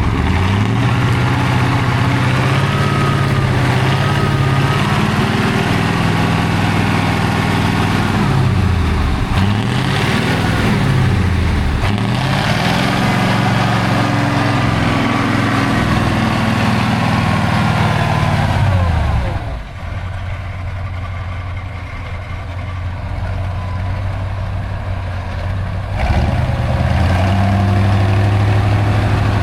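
A heavy off-road trial truck's engine working hard, its pitch repeatedly dropping and climbing again as the throttle is worked. About two-thirds of the way through it falls away and runs quieter, then picks up strongly again near the end.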